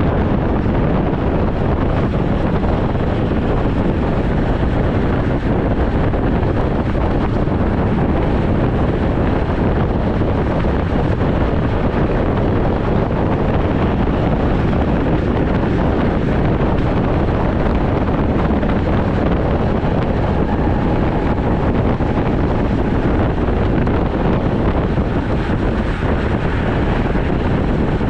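Steady rushing wind noise on the microphone of a road bike in motion, a constant low roar with no breaks.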